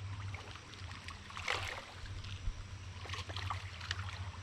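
River water flowing and trickling, with a few faint splashes, over a steady low hum.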